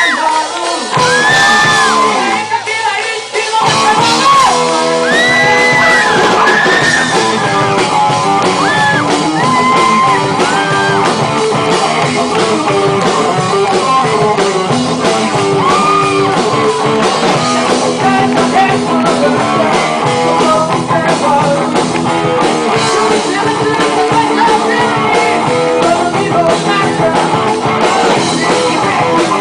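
Rock band playing with a singer. High sung glides and shouts fill the first several seconds, then full band music carries on with a dense, steady texture.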